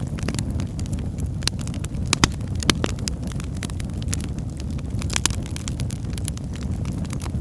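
Wood fire crackling in a fireplace: a steady low rumble of the flames with irregular sharp pops and snaps, two of them louder a little over two seconds in.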